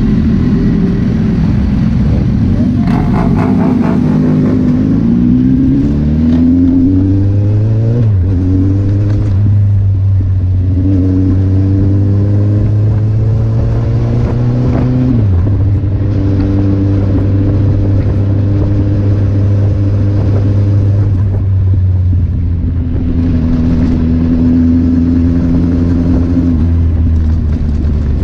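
Kawasaki Z800's inline-four engine accelerating through the gears: its pitch climbs, drops at a gear change about eight seconds in, climbs again and drops at a second shift around fifteen seconds, then holds steady at cruising speed.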